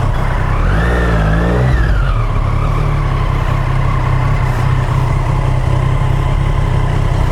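Motorcycle engine idling steadily, with a brief rise and fall in engine pitch about a second in, like a short rev.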